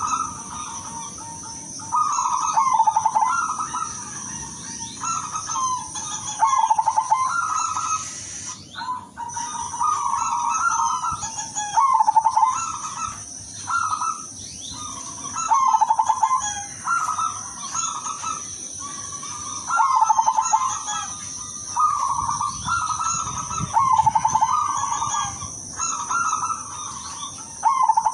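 Zebra dove (perkutut) singing: rapid stuttering cooing phrases, repeated about every two seconds, over a steady high-pitched hum.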